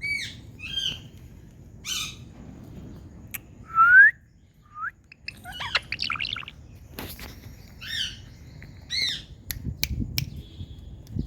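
Indian ringneck parakeet calling in a series of short chirps and squawks, with one loud rising whistle about four seconds in. A few sharp clicks come in the second half.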